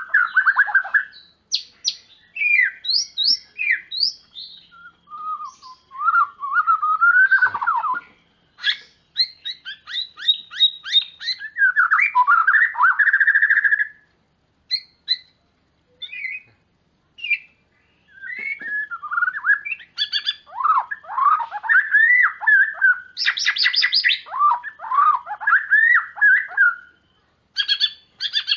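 White-rumped shama (murai batu) in full, prolific song: a long run of varied phrases of clear whistles, quick sweeping notes, rapid trills and harsh rattles, broken by short pauses, with a sparser stretch about halfway through.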